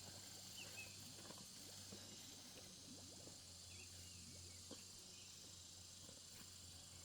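Near silence: a faint steady high hiss and low hum, with a few faint scattered ticks.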